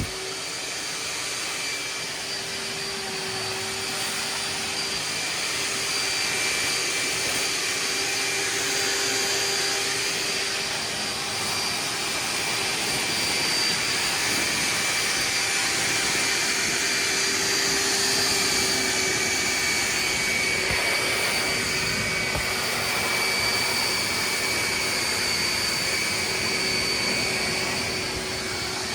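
Hoover wet/dry vac running with a steady motor whine and rushing air as it sucks water out of a saturated rug. It grows a little louder after the first few seconds, then holds with slight swells.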